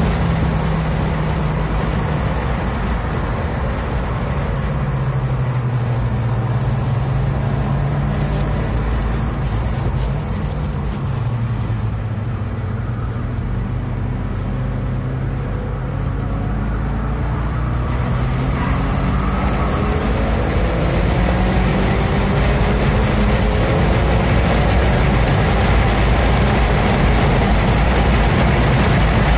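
2016 Ford Focus RS's 2.3-litre turbocharged four-cylinder, heard from inside the cabin on track: the engine note falls as the car slows from high speed, stays low through a slow corner in third gear, then rises steadily from about two-thirds of the way in as it accelerates hard up through the gears to fifth, over constant road and wind noise.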